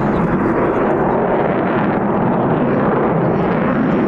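Loud, steady jet noise from an RAF Eurofighter Typhoon's twin Eurojet EJ200 turbofans during a flying display.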